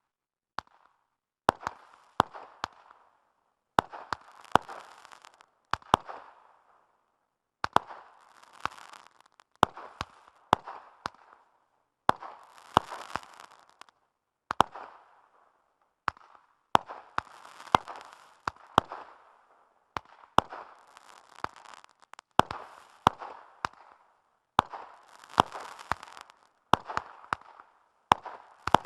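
Consumer fireworks cake firing its 30 shots one after another. Each shot is a sharp bang, and many are followed by a second or so of crackling from the golden crackling peony breaks. There are brief quiet gaps between the clusters of shots.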